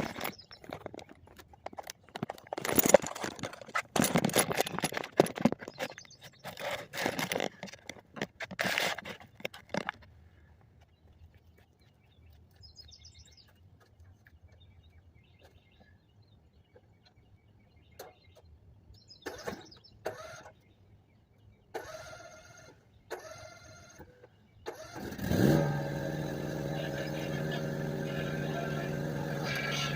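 Rattling and knocking for about ten seconds, then a few scattered knocks. Near the end a lawn mower's small engine starts with a quick rising rev and settles into a steady run.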